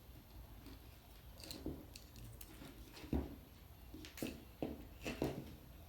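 Faint, scattered clicks and rustles of a wiring harness and its plastic connector being handled while a pin is worked out, with the loudest tap about three seconds in.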